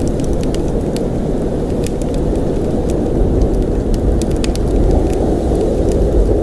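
Blizzard wind blowing steadily, a dense deep noise, with scattered faint clicks and ticks over it.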